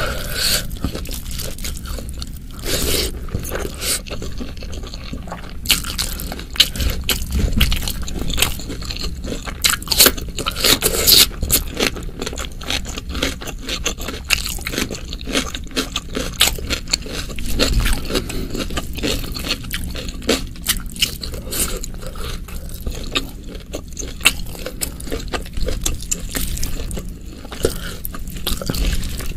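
Close-miked eating sounds: a person chewing rice and spicy beef with wet clicks and smacks, along with fingers squishing and scooping sticky rice off a banana leaf.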